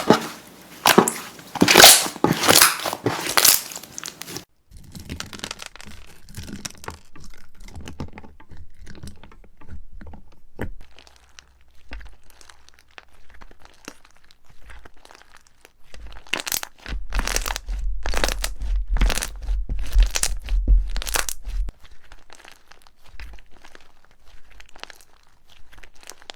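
Slime being squeezed and pressed by hand, giving dense crisp crackling and crunching. It is loud at first, softer after a sudden break about four and a half seconds in, and loud again for about five seconds past the middle, over a low rumble.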